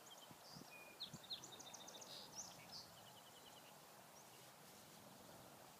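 Near silence, with faint high bird chirps and a short trill in the first half, then only a faint hiss.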